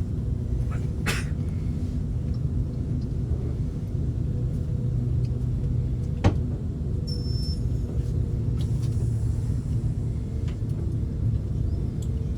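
Passenger train running with a steady low rumble and engine hum, with a single sharp click about six seconds in.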